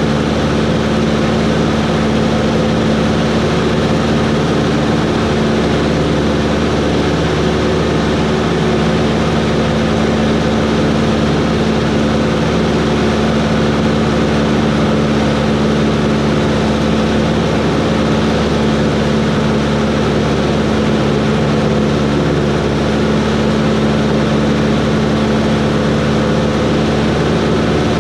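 Cessna 140's piston engine and propeller running in flight: a steady, loud drone that does not change in pitch or level.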